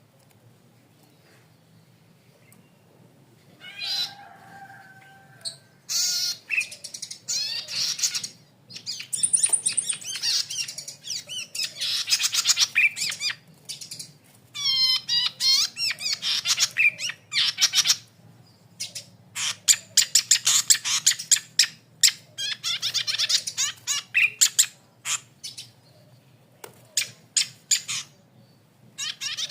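Cici padi kepala merah, a small cisticola, singing in long bursts of rapid, high chattering and trilling notes broken by short pauses, after a few quiet seconds at the start.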